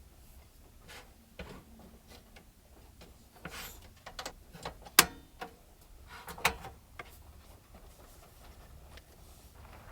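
Scattered small clicks, taps and rubbing of things being handled close by, over a low steady hum. One sharp click about five seconds in is the loudest, with another cluster of knocks about a second and a half later.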